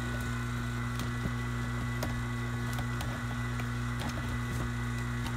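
12 CFM Navac vacuum pump running steadily, a constant hum with a thin whine over it and a few faint ticks, while it pulls a deep vacuum of about 22 microns.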